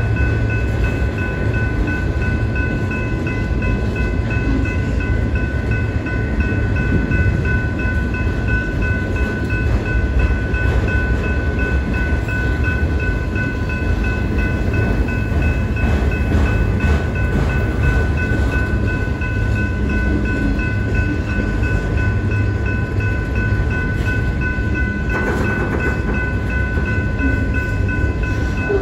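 Freight train of autorack cars rolling past at steady speed: a continuous low rumble of wheels on rail. A level-crossing warning bell rings steadily over it as a set of high tones.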